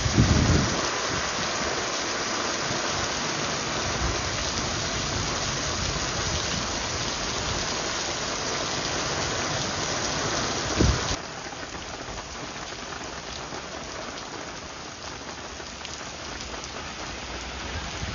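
Heavy rain pouring onto a paved street, a dense steady hiss. A low thump comes just after the start and another about eleven seconds in, after which the rain suddenly sounds quieter and lighter.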